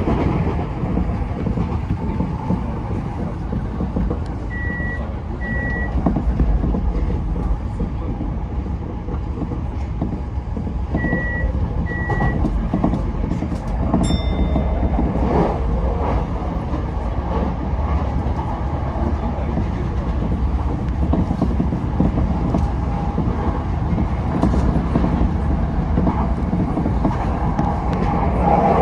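Tokyo Metro 10000 series train running along the line: steady wheel-on-rail rumble and running noise. Twice a pair of short high beeps sounds over it.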